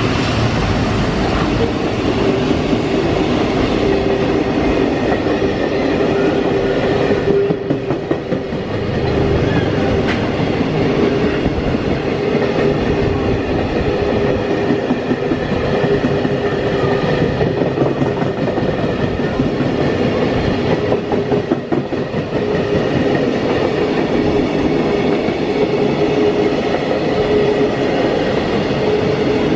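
Freight train passing, its wagons' wheels running steadily along the rails, with a steady tone under the rolling noise.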